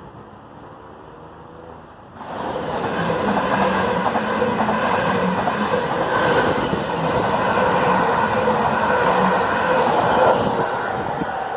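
Stansted Express Class 745 Stadler FLIRT electric train passing close by at speed: a loud rush of wheels and air with a steady hum under it. It starts suddenly about two seconds in and eases off near the end.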